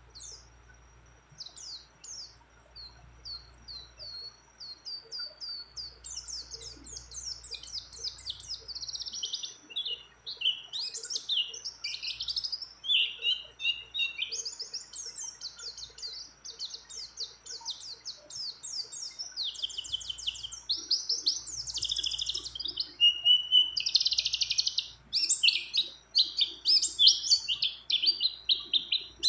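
White-eye (pleci) singing: a few spaced high chirps at first, then from about six seconds a long, fast run of high twittering trills and rolls that grows louder toward the end.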